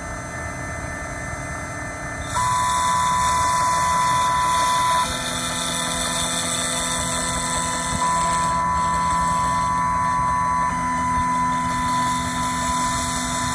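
Desktop CNC chip-cutting machine running a pass around a phone IC at zero cutting depth, its spindle and stepper motors whining steadily. It gets louder about two seconds in, and its whining tones change every two to three seconds as the tool head moves along each side.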